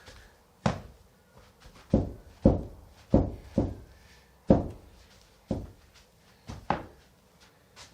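Heavy footsteps on a timber bedroom floor in need of repair, about nine thuds at uneven spacing. It is not a terribly good sound: the floor was disturbed by the house being restumped and is due to be fixed.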